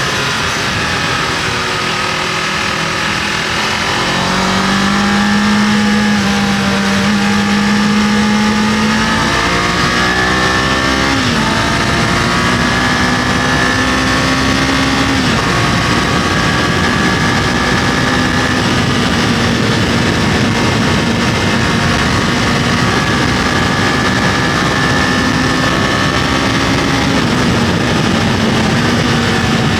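Kawasaki KLE500's parallel-twin engine running under way while the motorcycle is ridden, its note rising and falling a little several times with changes in throttle and speed, over a steady rush of wind and road noise.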